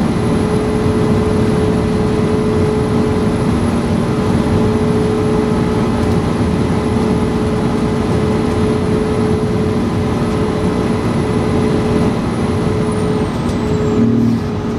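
Fire engine on the move: a steady, loud drone of engine and road noise with a constant hum, and a brief louder thump near the end.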